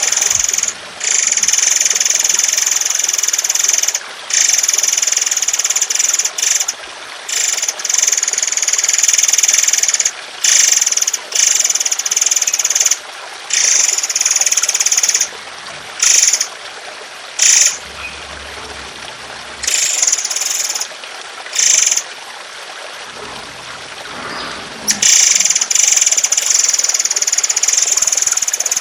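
Songbirds giving long, harsh, rapid trilling song bursts. The high-pitched rattling stretches last from under a second to several seconds and are broken by brief pauses. Trickling water runs steadily underneath.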